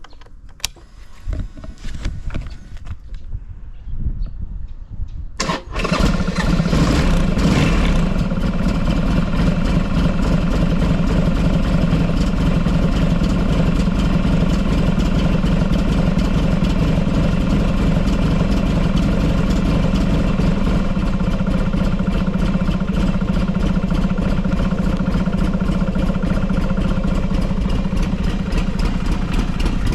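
A few clicks and knocks, then about five seconds in the Buell XB12SCG Lightning's air-cooled V-twin starts at once from cold, runs a little faster for a couple of seconds and settles into a steady idle with no abnormal noise.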